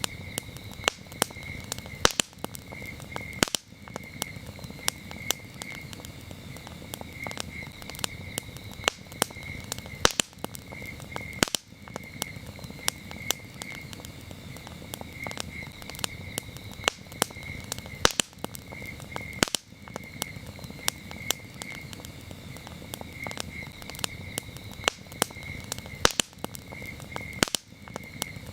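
Wood campfire crackling, with frequent sharp pops at irregular intervals over a steady low rush of the burning fire. Crickets chirp throughout in short pulsed groups.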